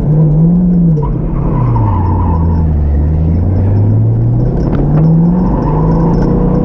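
Drift car's engine revving up and down through a drift run: the revs drop about two seconds in and climb again near five seconds, over the noise of tyres skidding.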